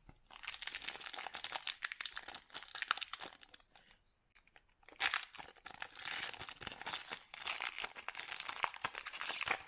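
A Donruss Optic basketball card pack's foil wrapper crinkling as it is handled and torn open, in two spells of dense crackling with a quiet gap of about a second in the middle.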